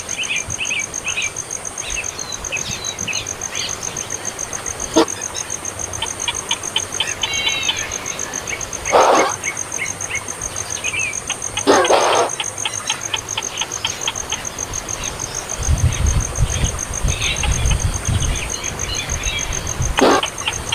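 A small bird chirping in quick series of short high notes over a steady, rapidly pulsing high-pitched insect trill. A few sharp knocks stand out, and a low rumble comes in about two-thirds of the way through.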